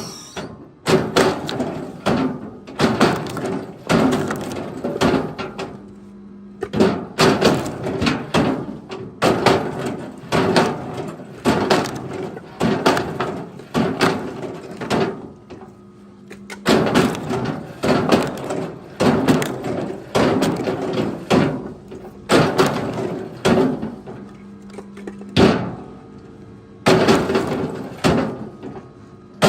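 Chunks of wood knocking and clattering against each other over and over, in quick clusters of hard knocks about a second apart, with a few short lulls.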